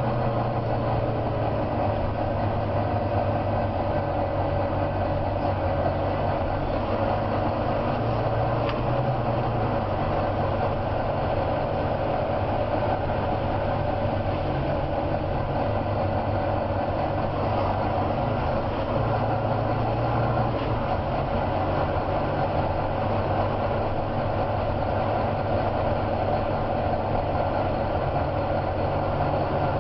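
Volvo B9TL double-deck bus's diesel engine running steadily with a deep growl. A low drone that swells slightly a couple of times.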